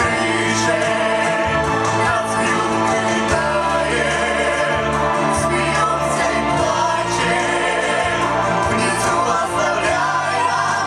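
Vocal ensemble singing a song in chorus over instrumental accompaniment.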